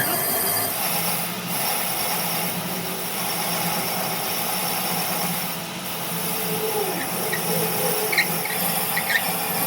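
A machine running steadily, a low hum under high-pitched steady tones.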